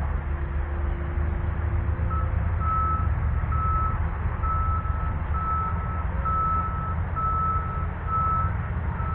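A reversing alarm on a truck or construction vehicle beeps one steady high tone a little more than once a second, starting about two seconds in, over a steady low rumble.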